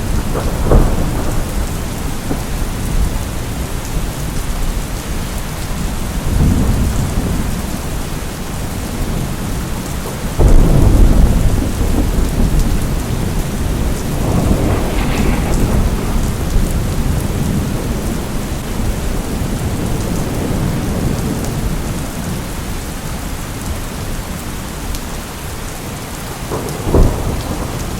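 Steady rain with repeated thunder. A sharp clap comes near the start and a rumble about six seconds in. The loudest rumbling clap comes about ten seconds in, more rolling thunder follows a few seconds later, and a short sharp crack comes near the end.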